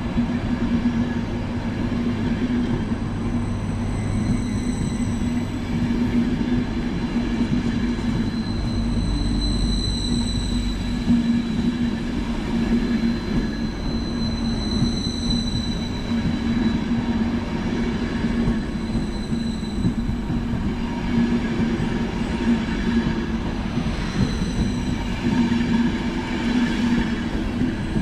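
ÖBB EuroCity passenger coaches rolling past along the platform: a steady rumble of wheels on rail under a low steady hum, with high thin squealing tones that come and go.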